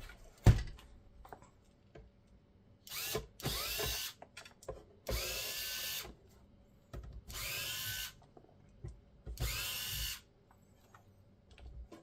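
A sharp knock, then a cordless electric screwdriver backing out four screws one after another. Each short run of the motor whines and drops in pitch as it stops, with small clicks between the runs.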